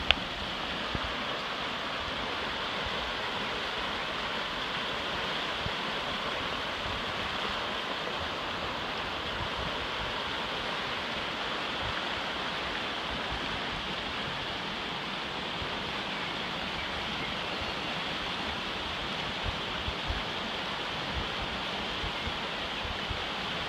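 River rapids: white water rushing steadily over the rocks, an even, unbroken hiss.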